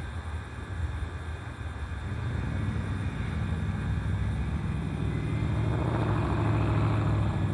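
A motor vehicle's engine running, growing louder from about two seconds in.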